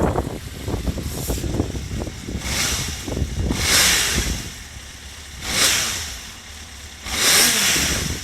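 Honda CBX400F's four-cylinder engine running, its revs raised in three throttle blips that each swell and fall back.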